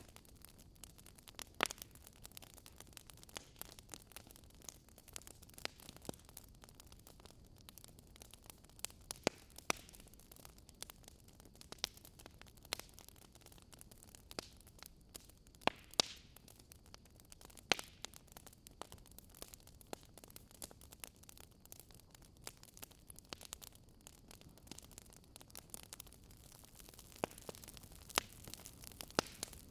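Wood campfire crackling: irregular sharp pops and snaps, a few louder ones scattered through, over a steady soft hiss.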